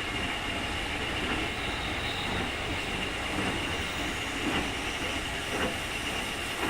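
Keikyu 2000 series electric train (Mitsubishi field-chopper control) running at steady speed, heard inside the car: a steady high whine, the 'jet sound' of this unusually noisy car, over the rumble of wheels on track, with a few rail-joint knocks in the second half.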